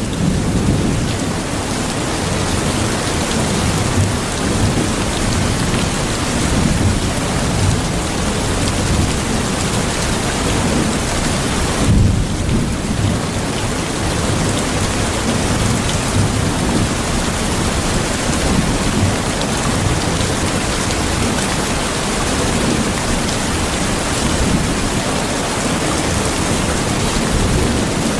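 Steady heavy rain, with thunder rumbling low underneath and a louder rumble about twelve seconds in.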